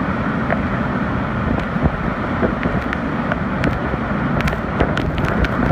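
Hurricane-force wind in the eyewall of a major hurricane (about 150 mph sustained), blowing hard and buffeting the microphone with heavy low rumble. Scattered sharp clicks and ticks run through it.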